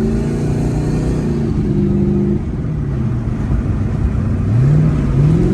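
Car engine running under way. Its pitch holds steady, then falls about two seconds in as it eases off, and rises again twice near the end as it revs up.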